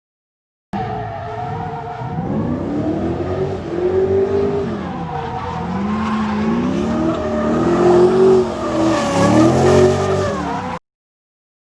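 LS1 V8 in a drift-built Mazda MX-5 revving up and down repeatedly through a drift, with tyres skidding and squealing, loudest near the end. The sound cuts off suddenly near the end.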